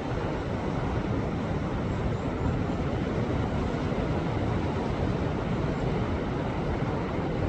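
Sea waves washing against a rocky shore: a continuous, steady rush of surf with no distinct single breaks.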